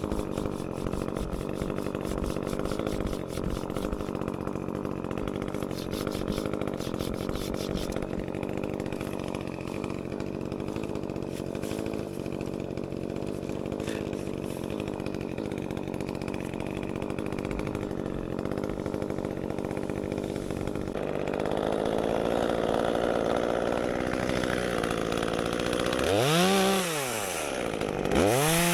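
Echo 355T top-handle two-stroke chainsaw running steadily at low speed. About 21 seconds in it picks up slightly, and near the end it is revved up and let back down twice in quick succession.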